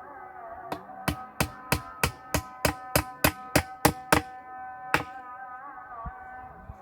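Hammer blows on wood in a quick, even series, about three a second for a few seconds, then one more strike, over steady background music.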